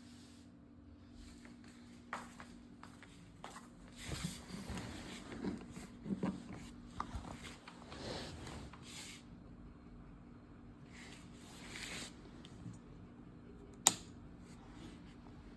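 Faint rustling, scraping and handling noises over a steady low hum, with a single sharp click about fourteen seconds in.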